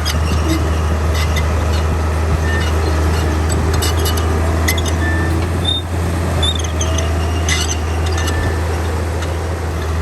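Heavy earthmoving machinery's diesel engine running steadily under load, a deep constant rumble, with scattered metallic clicks and brief squeaks.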